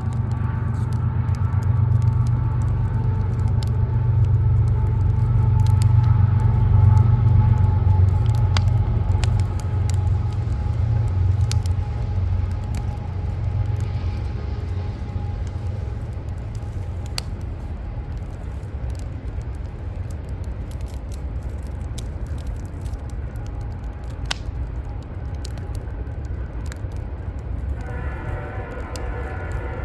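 Wood fire crackling with scattered sharp pops, under a heavy low rumble of city traffic that swells to its loudest about seven seconds in and then slowly fades. Near the end another engine comes in with a pitched drone.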